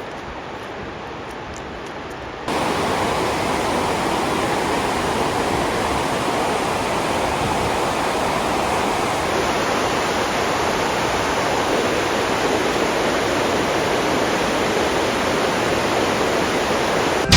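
Steady rushing of a river or waterfall, an even hiss of water with no pauses. About two and a half seconds in it jumps suddenly louder and fuller.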